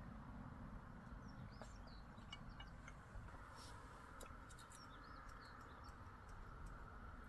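Faint small-bird chirps and short twittering calls scattered throughout, over a steady low background rumble, with a few light clicks in the second half.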